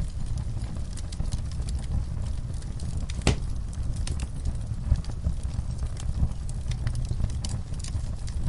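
Fireplace fire burning with a steady low rumble and scattered crackles, and one sharp pop about three seconds in.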